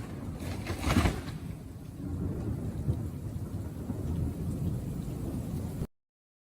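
Thunder rumbling in a storm, with a louder crack about a second in and a hiss like rain under it. The sound cuts off suddenly near the end.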